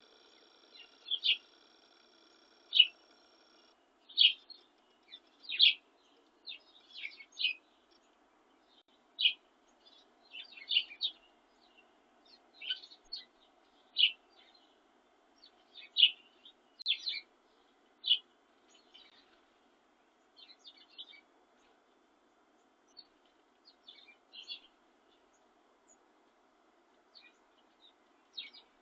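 Songbirds chirping: short, sharp calls in an irregular series, frequent at first and sparser in the later part.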